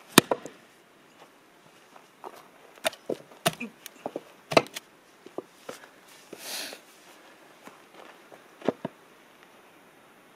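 Sharp, irregular wooden knocks and clacks from splitting firewood: a loud one just after the start, a cluster from about three to five seconds in, and a last one near the end.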